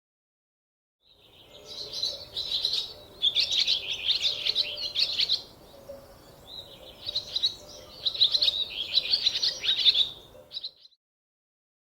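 Squirrel calling in rapid, high-pitched chirps, in two bursts of about four seconds each with a short pause between.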